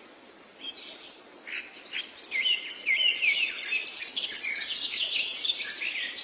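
Birds chirping and calling in short, pitch-bending phrases, with a fast, high ticking trill like an insect's that comes in about two seconds in and grows louder.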